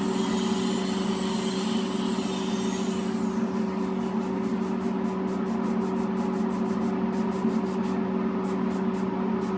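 Air spray gun hissing as it sprays a coat of paint for about three seconds at a lowered air pressure of 45 psi, over a steady machine hum. After the spraying stops, rapid, evenly repeating high ticks run on over the hum.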